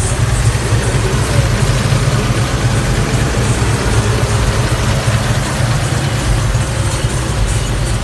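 V8 engine of a custom convertible donk, fitted with FiTech throttle-body fuel injection, idling steadily with a low, uneven pulse.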